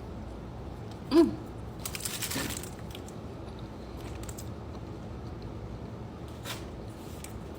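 Eating sounds: a short 'mm'-like voice sound with falling pitch about a second in, then about a second of crunching or crinkling, and a faint click near the end.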